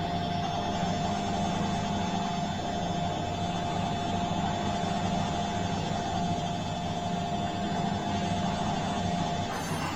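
Bosch washing machine running steadily, a low hum under a constant thin whine. Just before the end the whine cuts out and the sound shifts.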